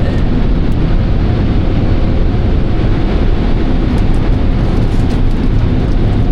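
Car wash air-dryer blowers blowing on the car, a loud steady rush of air heard from inside the cabin.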